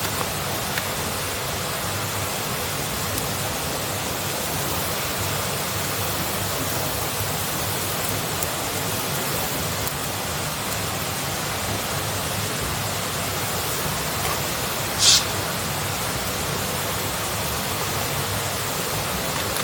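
Steady rushing noise with no clear rhythm, with one brief high-pitched sound about fifteen seconds in.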